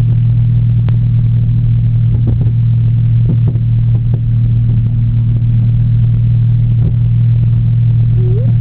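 Tow truck engine running steadily, a loud low drone, with a few faint knocks in the middle.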